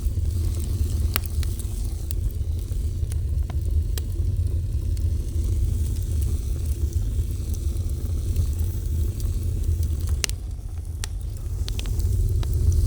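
Wood fire burning: a steady low rumble with scattered sharp crackles and pops, the loudest pops about a second in and just after ten seconds.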